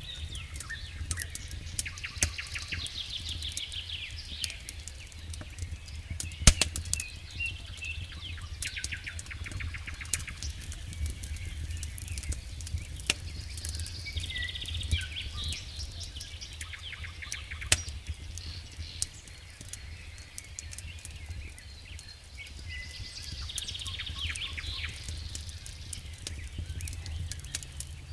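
Wood campfire crackling with irregular sharp pops, one louder snap about six seconds in, over a low steady rumble. A songbird sings bursts of fast trills every few seconds.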